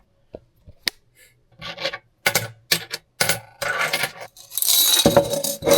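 Loose coins clinking and rattling: a few separate clicks, then quicker clinks, building to a dense, loud jingle about five seconds in.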